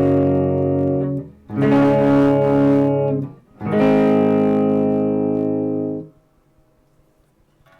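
Electric guitar with Fleor Alnico 5 humbucker pickups, strumming chords. One chord is ringing at the start, and two more are struck at about 1.5 and 3.6 seconds in. Each rings for a second or two before it is cut off, and near the end it goes almost silent.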